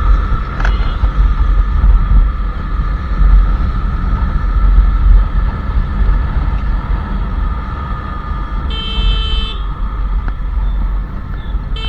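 Royal Enfield Classic 350's single-cylinder engine running on the road. A vehicle horn sounds for about a second near the end, and the engine grows a little quieter in the last few seconds.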